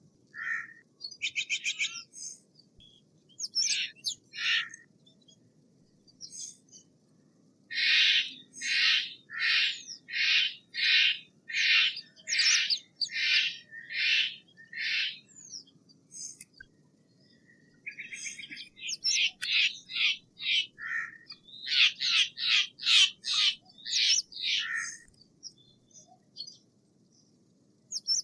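Steller's jay calling with repeated harsh calls: a few scattered ones at first, then a steady run of about ten, each less than a second apart, a pause, and another quick run of calls.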